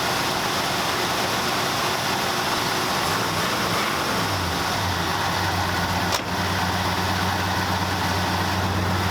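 1974 Ford F100's 390 V8 engine running. About three to four seconds in its revs fall and it settles into a steady idle. A single sharp click comes about six seconds in.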